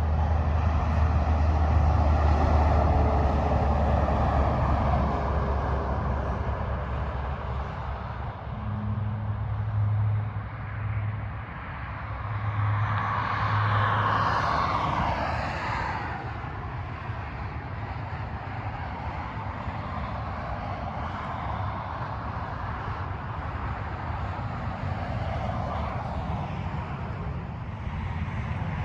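Freeway traffic passing at speed. A heavy vehicle's deep engine rumble and tyre noise open the stretch, another vehicle swells past with falling pitch about halfway through, and steadier, quieter tyre hum follows.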